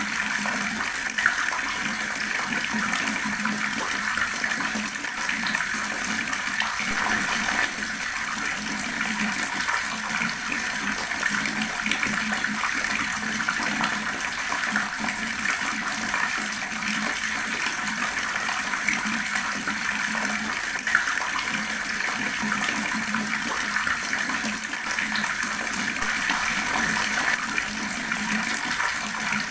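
Water tap running steadily and gurgling, a constant stream of splashing water with small crackles.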